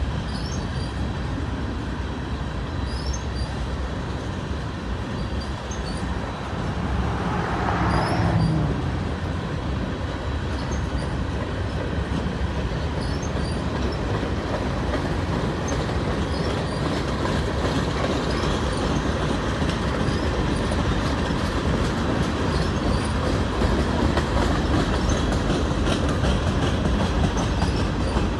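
Freight train cars rolling past with a steady rumble of wheels on rail, and a brief louder wheel squeal about eight seconds in.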